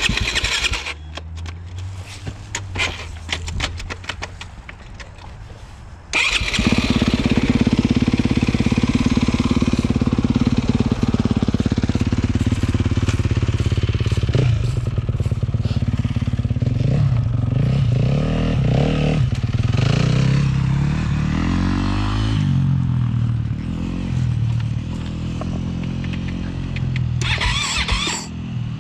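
Dirt bike engine: a quieter low running note with scattered clicks, then a loud engine bursting into life about six seconds in. It keeps running, is revved up and down several times around the middle, and settles back toward idle near the end.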